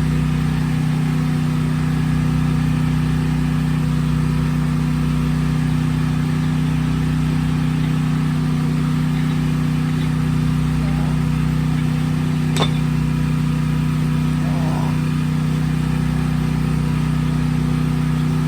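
Steady low motor hum that holds one even pitch throughout, with a single sharp click about two-thirds of the way through.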